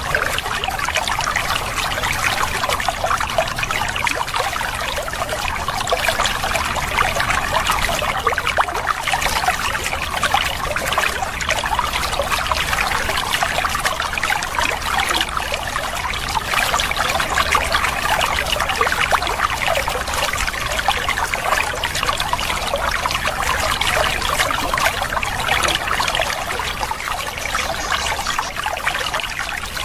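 Steady babbling of running water, a continuous splashing trickle with no bird song over it.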